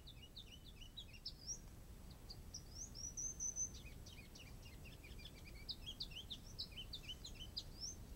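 Small songbirds chirping and singing in a dawn chorus: many short, quick high notes, with a louder high trilling phrase about three seconds in.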